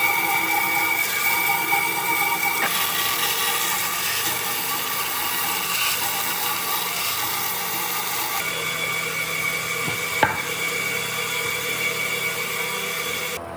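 A woodworking power tool running and working wood: a steady motor whine over a rough hiss, changing abruptly twice and cutting off near the end.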